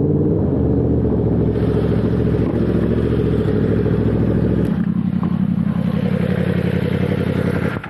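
Yamaha R1 sportbike's inline-four engine running with a steady note; its tone changes about two-thirds of the way in, and it drops away at the very end.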